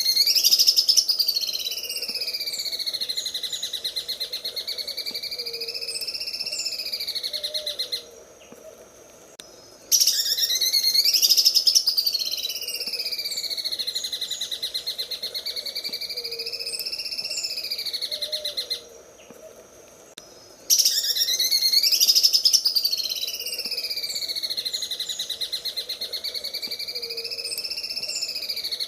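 Cucak ijo (greater green leafbird) singing its 'sewing machine' song: a fast, machine-like pulsing trill that opens loud with a rising sweep and wavers up and down in pitch. The same long phrase comes three times, each about 8 seconds, with short pauses between.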